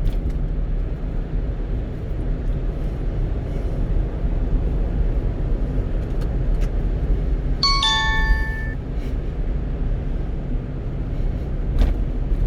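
Steady low road and engine noise inside the cab of a 1-ton truck on the move. About eight seconds in, a short two-note electronic chime falls in pitch, and a few faint clicks sound.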